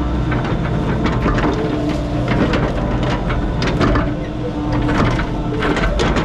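An excavator's diesel engine runs steadily under load, with frequent sharp cracks, knocks and clanks as the bucket breaks up and clears tree limbs.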